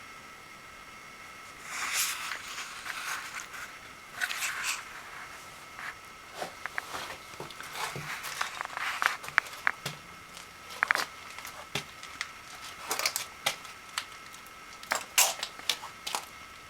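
Irregular rustling and crinkling with many sharp clicks, like something being handled close to the microphone. A faint steady high whine sits under it throughout. No engine is running.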